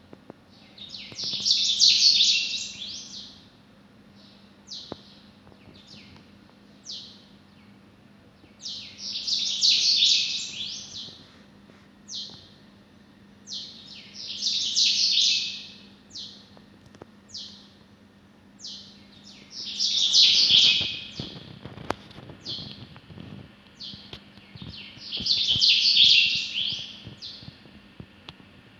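Small birds chirping: loud bursts of rapid, high chirps about every five to six seconds, with single chirps between them.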